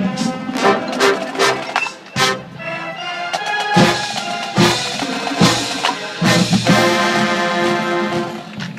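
Brass and drum music: horns play over regular drum hits, ending in long held chords.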